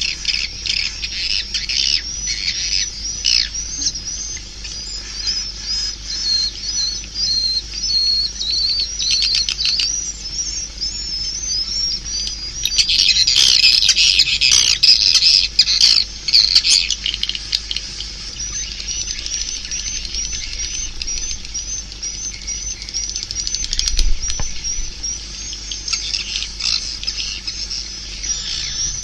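Swiftlet calls: a fast, continuous run of short, high, hooked chirps, with a louder, denser stretch of twittering about 13 to 17 seconds in. This is a swiftlet call recording of the kind played through tweeters to lure swiftlets into a swiftlet house.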